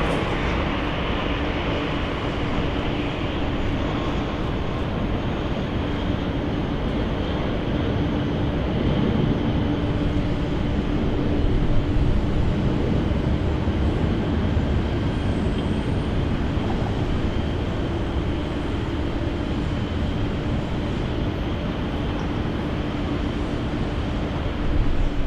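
Steady jet aircraft engine noise: a continuous rumble with a constant hum underneath, swelling slightly about halfway through.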